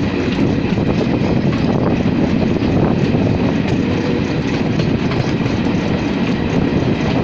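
A passenger train running on the track: a steady, loud rumble and rattle that goes on without a break.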